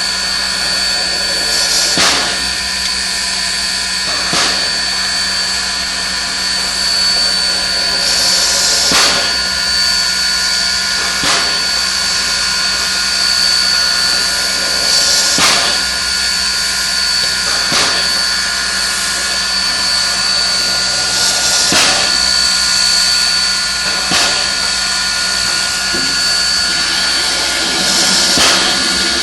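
Steam locomotive standing with steam hissing and a steady high whine, and a sharp puff of exhaust about every two seconds.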